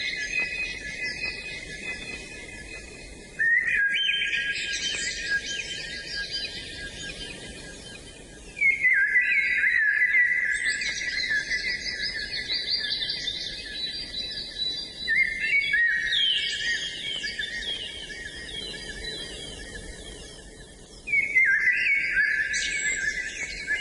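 Birds chirping and singing in a dense chorus of high notes. The chorus comes in abruptly three times and fades down between entries.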